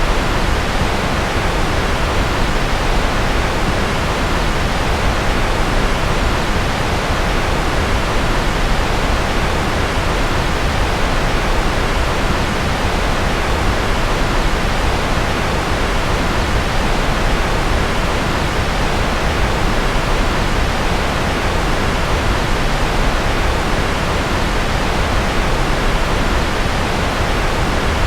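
Steady white-noise track: an even, unchanging rushing hiss with a deep rumble underneath, billed as rocket and jet engine noise.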